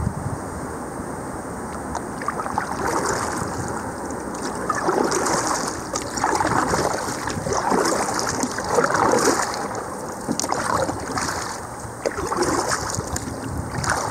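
River water splashing and lapping around a kayak, in a series of swishes about a second apart, with wind on the microphone.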